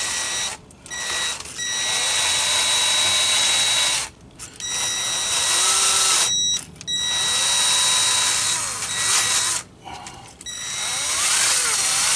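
Power drill spinning a wire brush, scrubbing rust and debris out of the steering knuckle's hub bore to clean it for a new wheel hub. It runs in bursts of about two to three seconds with short pauses between, a steady motor whine over the scraping hiss of the brush.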